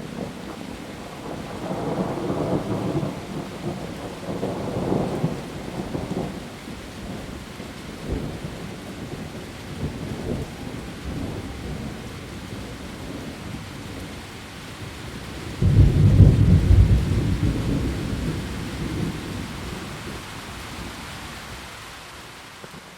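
Heavy rain falling steadily on leaves during a thunderstorm. Low rolls of thunder come a couple of seconds in, and a louder thunderclap about sixteen seconds in rolls away over several seconds.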